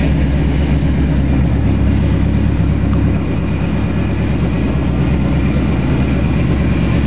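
A full-size 4x4 SUV's engine running steadily as the truck crawls through mud and standing water, a loud, even low rumble.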